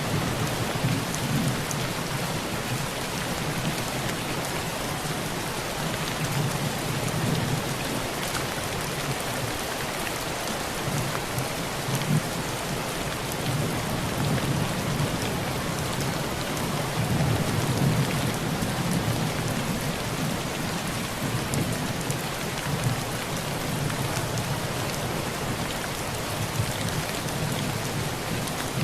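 Heavy rain drumming steadily on a tin roof, with low thunder rumbling in the background and swelling several times, loudest about two-thirds of the way through.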